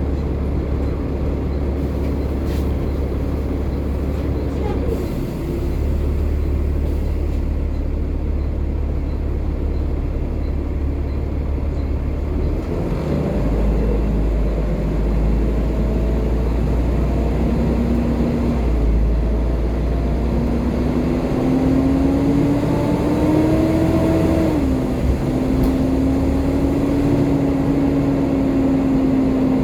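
Volvo B7TL double-decker bus's engine running as a steady low drone, then from about halfway a rising whine as the bus pulls away, which drops sharply near the end at a gear change and then holds steady.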